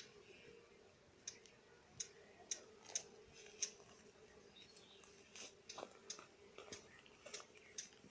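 Faint, short bird chirps, irregular and about one or two a second, over a faint steady low hum.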